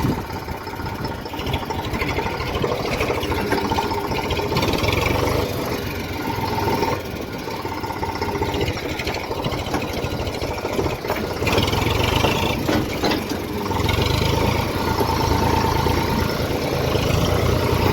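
Tractor diesel engine running steadily, its low rumble growing louder about two-thirds of the way in and staying up to the end.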